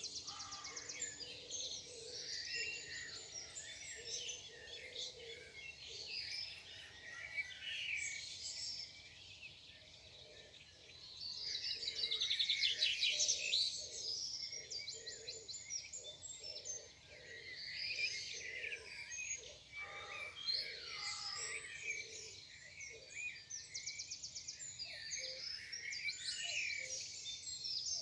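Morning chorus of several songbirds singing at once: overlapping quick chirps and rapid trills, busiest and loudest about twelve seconds in.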